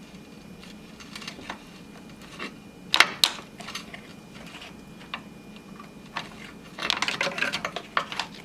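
Hand-work clicks and taps as a transmission oil cooler line is worked free of its plastic retainer and radiator fitting: scattered light clicks, two sharp clicks about three seconds in, and a run of rattling clicks near the end.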